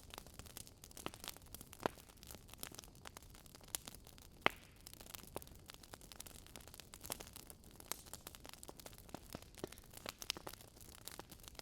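Burning wood logs crackling: irregular sharp pops and snaps over a faint steady hiss, the loudest pop about four and a half seconds in.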